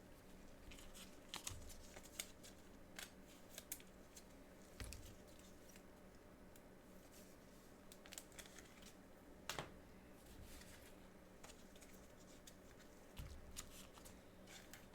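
Faint, scattered rustles and clicks of trading cards and their wrappers being handled and opened, over a faint steady hum.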